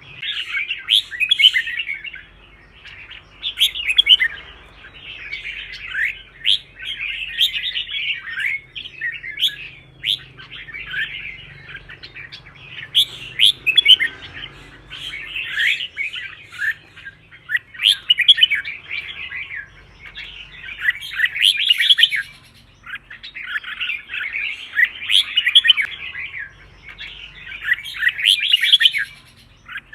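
Red-whiskered bulbul singing: bursts of quick, sweeping chirpy phrases, each lasting a second or two, repeated with short pauses.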